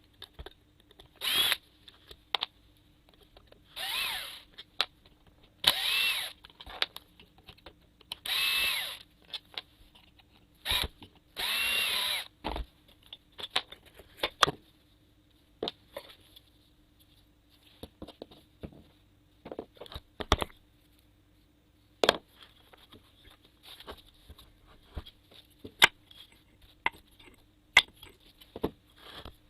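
Cordless electric screwdriver or drill running in about five short bursts with a whine, backing out screws. This is followed by scattered clicks and knocks of screws and parts being handled.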